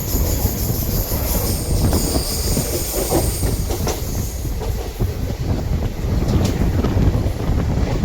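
Passenger train running on the track: a steady low rumble of wheels and cars with a clatter over the rail joints. High-pitched wheel squeal sounds over the first half and fades after about four seconds.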